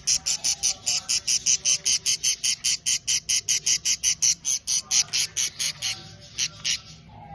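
Budgerigar chicks giving rapid, evenly repeated high chirps, about six a second, the begging call of unweaned chicks; the chirping stops about six seconds in, with two last chirps after.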